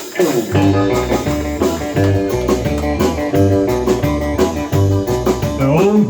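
Live band playing a blues-rock groove without singing: guitar, bass and drum kit come in together about half a second in, with a rising guitar bend near the end.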